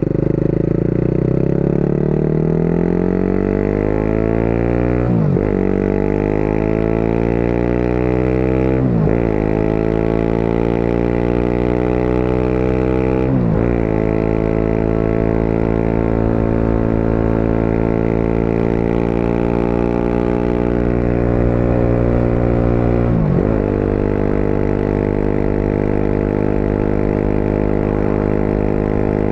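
Motorcycle engine accelerating through the gears: the engine note climbs, dips briefly at each of three upshifts, and climbs again, then settles into a steady cruising pitch, with one more shift near the end.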